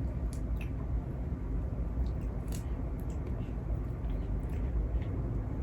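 Eating sounds of a seafood mukbang: chewing and biting, with scattered small clicks, over a steady low rumble.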